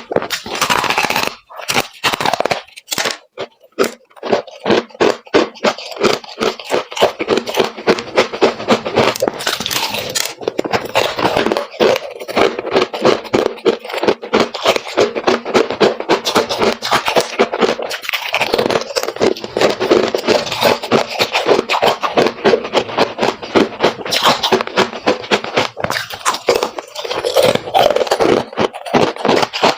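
Freezer frost being crunched and chewed close to the microphone: a rapid, continuous run of crisp crunches, with short gaps in the first few seconds.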